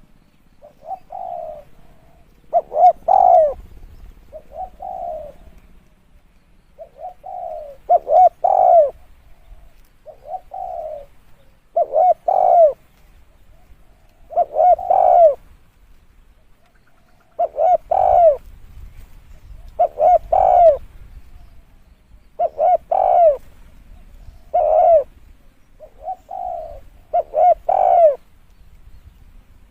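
Spotted dove cooing over and over, each phrase a few softer coos followed by louder, rolling coos, repeating every two to three seconds.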